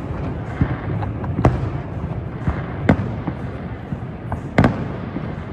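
Aerial fireworks bursting: a handful of sharp bangs at irregular intervals, two in quick succession near the end, over a steady low background rumble.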